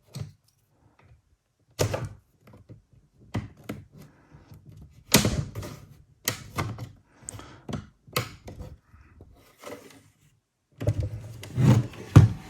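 Plastic clips of an MSI GE63 laptop's bottom case clicking and cracking loose as a spudger pries the case open along its edge: a series of sharp snaps, with a louder cluster of knocks near the end.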